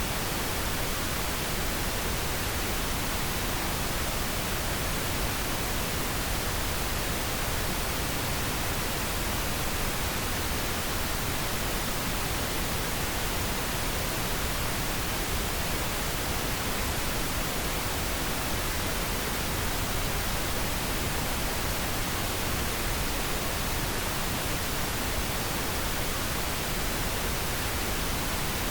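Steady pink noise: an even, unchanging hiss across all pitches, with no events or changes.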